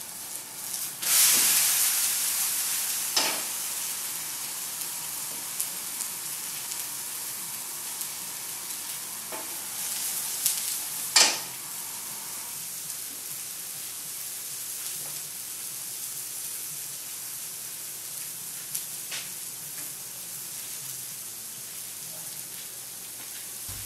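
Eggs in tomato sauce frying in a pan on a gas stove: a steady sizzle that surges loudly about a second in and slowly dies down, with a few sharp knocks of a utensil on the pan, the loudest about eleven seconds in.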